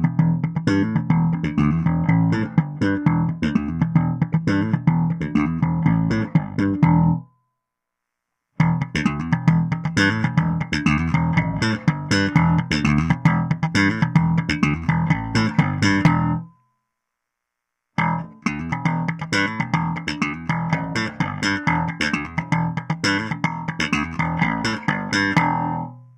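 Warwick Rockbass Streamer LX 5-string electric bass played clean and direct into an audio interface, with no amp or effects. It plays three passages of quickly picked notes, each broken off by a short silence of about a second.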